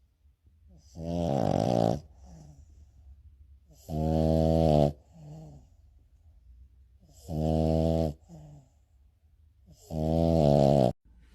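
A sleeping pet snoring loudly: four long, pitched snores about three seconds apart, each followed by a shorter, quieter breath out.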